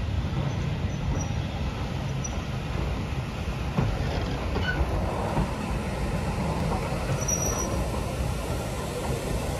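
A passenger train hauled by BR Standard Class 5 steam locomotive 73156 rolling past, giving a steady low rumble of wheels on rail. There are a few faint, brief high squeals.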